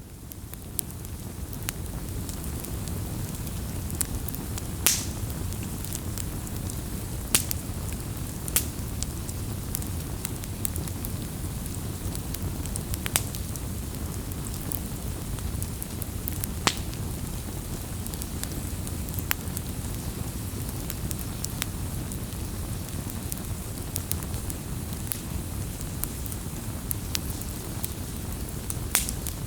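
Wood campfire burning: a steady low rumble with sharp crackles and pops every few seconds, the loudest a little after the start and near the end. The sound fades in over the first couple of seconds.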